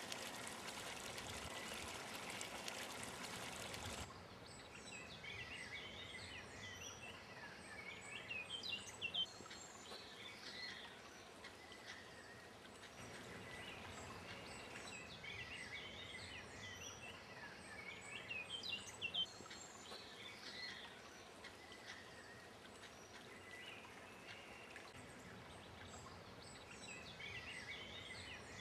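Small birds singing and chirping over a faint outdoor background. For the first four seconds a steady rush like running water lies under the birdsong, then cuts off suddenly.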